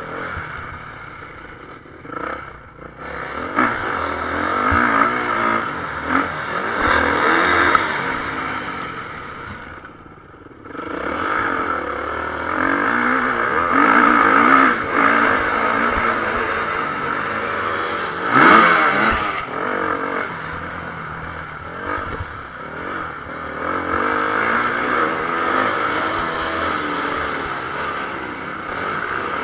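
Motocross bikes racing, engines revving up and down as they work the throttle. The engine noise drops briefly about ten seconds in, and one bike passes close, loudest, a little past halfway.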